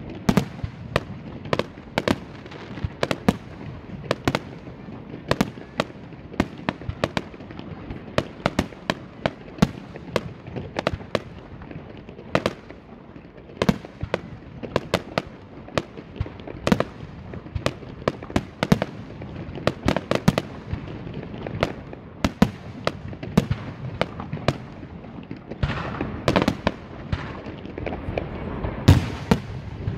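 Aerial fireworks display: bursting shells give many sharp bangs, several a second and irregularly spaced, with a denser, louder cluster near the end.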